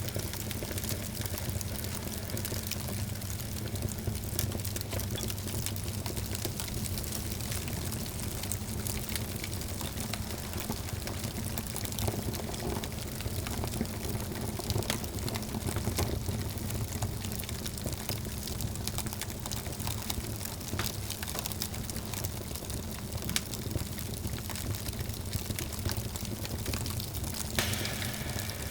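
Wood fire burning in a fireplace: a steady rushing hiss with frequent small crackles and pops.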